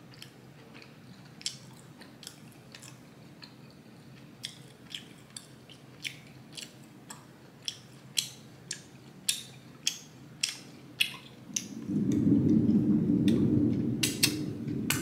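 Close-up mouth sounds of chewing fufu and egusi soup: wet smacking clicks, roughly two a second, getting louder. Near the end comes a louder, lower sound lasting about three seconds.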